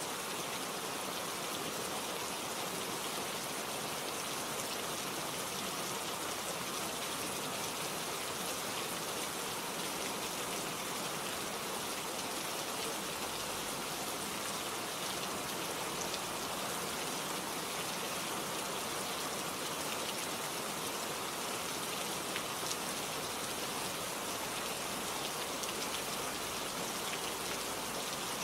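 Steady rain falling, with scattered drops ticking on leaves close by.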